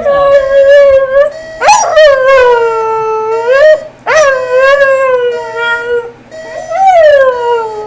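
A dog howling along to a beeping alarm clock: four long howls in a row, each rising and then sliding down in pitch, over the alarm's steady electronic tone, which breaks off and restarts.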